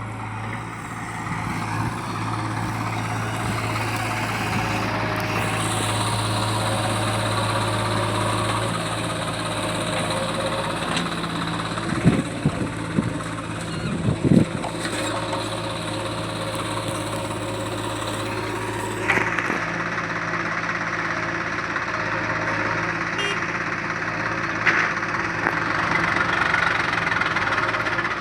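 Heavy diesel engine of farm or earth-moving machinery running steadily at idle, with a few sharp knocks about halfway through.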